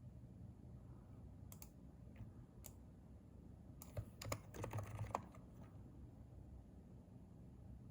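Typing on a Hansung keyboard with contactless electrostatic capacitive switches: a few scattered keystrokes, then a short burst of quick typing around the middle.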